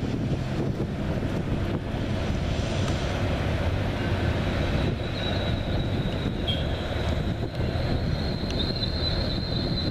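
A passenger train led by cab car 1652 running past with a steady low rumble; about halfway through, a thin high-pitched squeal comes in and holds steady.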